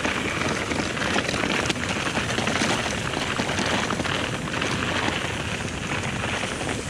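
Mountain bike rolling fast down a loose, stony trail: a steady crackle of tyres over dirt and gravel, mixed with the rattle of the bike.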